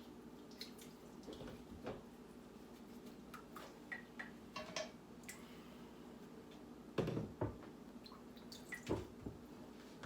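Raw chicken being washed by hand in water with salt: small wet drips, splashes and squelches, with two louder splashes about seven and nine seconds in. A steady low hum runs underneath.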